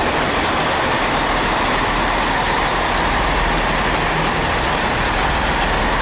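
Chiltern Railways Class 165 diesel multiple unit running through the station close by: a loud, steady rush of engine and rail noise.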